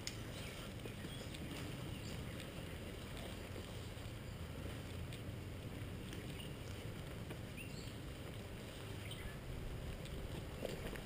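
Steady low rumbling noise with a few faint ticks scattered through it, the sound of wind and movement on a helmet-mounted GoPro's microphone.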